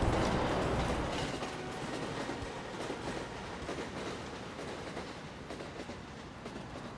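A passing train, its low rumble dying away in the first second and the rolling noise fading steadily into the distance.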